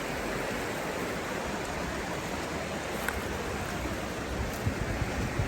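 Steady rushing of flowing river water, with a few low wind buffets on the microphone near the end.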